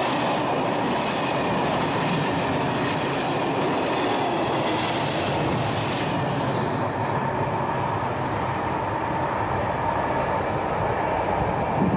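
Loaded log wagons of a timber freight train rolling on the rails: a steady, loud rolling noise that carries on after the last wagon has passed, with a faint steady ring over it.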